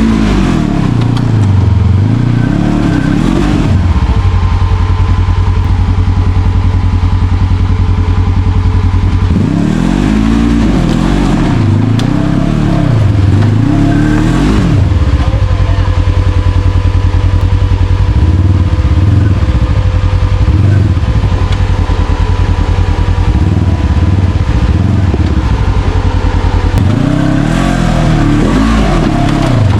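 Side-by-side UTV engine revving up and falling back in repeated bursts under load while crawling over rocks, with steadier running between the bursts.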